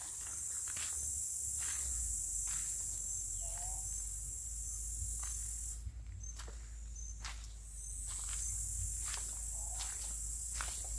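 Footsteps walking steadily on a road, a step about every second, under a steady high insect chorus of crickets or cicadas that stops for about two seconds midway and then resumes.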